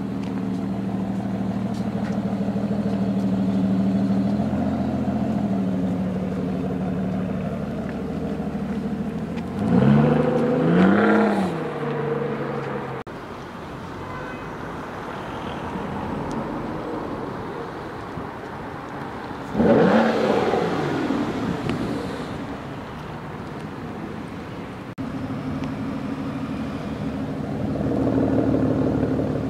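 Aston Martin DBS Volante's 6.0-litre V12 idling, with a rev about ten seconds in that rises and falls back. A second sudden loud burst of revs comes about twenty seconds in and settles back to idle.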